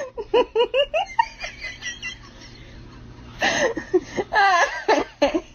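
Human laughter in quick repeated bursts that trail off about two seconds in, then a second round of laughing from about three and a half seconds.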